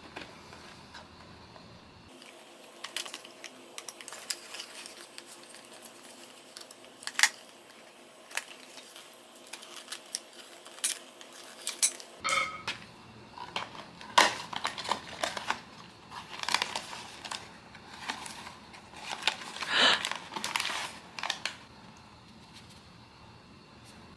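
Blind box packaging handled by hand: irregular light taps, clicks and crinkly rustles of cardboard and wrapping, busier in the second half and dying away near the end.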